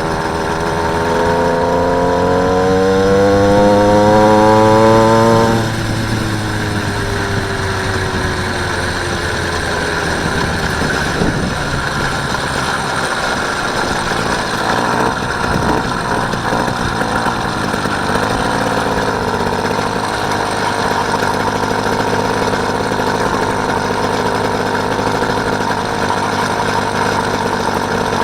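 Small engine of a motorised bicycle revving up, its pitch rising for about five seconds, then easing off and running steadily while riding.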